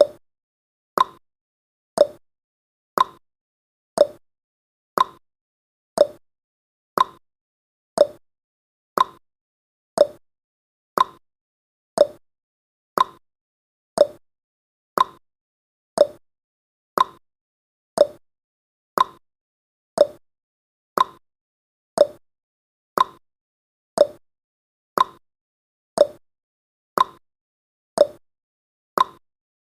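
Clock-tick sound effect of a countdown timer, one sharp tick each second at an even pace.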